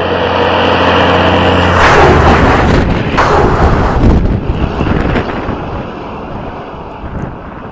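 Heavy diesel vehicle engine running steadily, then a loud rushing surge of noise about two seconds in that slowly fades away.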